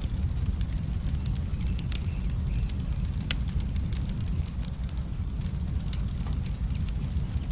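Wood fire in a fireplace crackling, with irregular sharp pops and snaps over a steady low rumble; one louder pop a little under halfway through.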